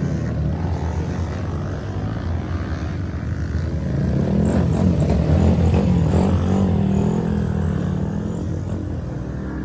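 Small mini bike engines running laps on a track, their buzzing pitch rising and falling as the bikes rev and pass, loudest about halfway through.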